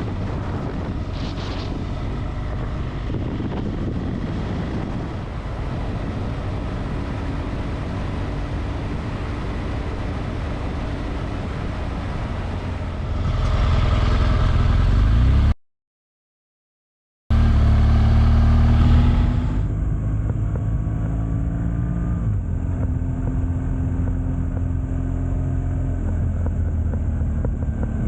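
Motorcycle engine running while riding, with road and wind noise. A little past halfway the sound gets louder, then cuts out completely for about a second and a half before the riding sound resumes.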